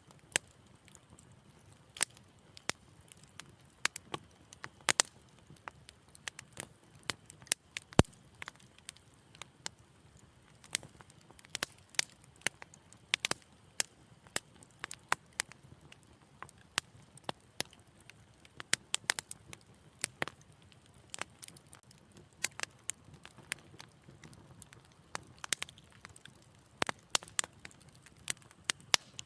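Fire in a fireplace crackling, with irregular sharp pops and snaps over a faint low hiss. One loud pop about eight seconds in.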